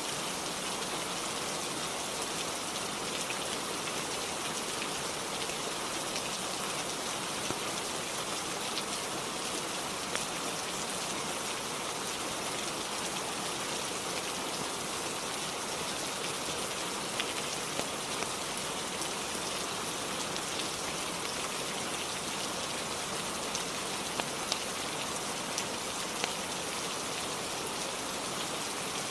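Steady rainfall on a roof, with a few scattered sharp ticks.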